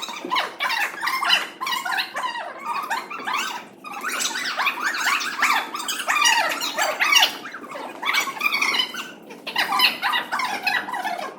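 Many children's voices chattering and squealing over one another, high-pitched and overlapping, with no single clear speaker.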